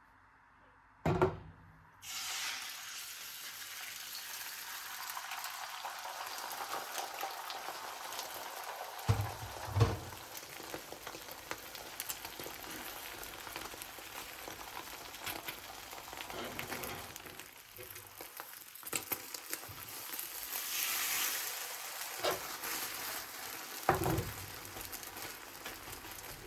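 Food frying in hot oil in a pan: a crackling sizzle that starts suddenly about two seconds in and carries on, with a few knocks, the loudest about a second in, again around nine to ten seconds, and near the end.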